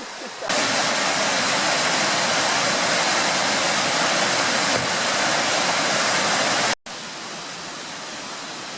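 Steady rushing of running water, loud for about six seconds, then cutting off abruptly to a quieter, similar rush.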